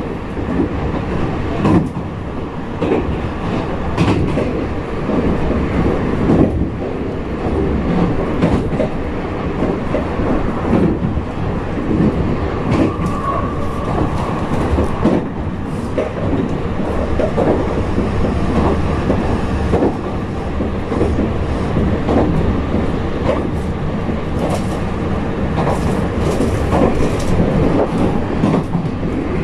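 Meitetsu 4000 series electric train (Mitsubishi IGBT-VVVF) running between stations, heard from inside the car: steady rolling noise from wheels on rail, with irregular clicks and knocks from the track.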